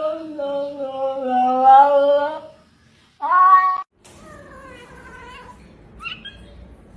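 A cat's long, wavering yowl, then a short meow. After an abrupt cut, another meow falling in pitch and a brief chirp-like call.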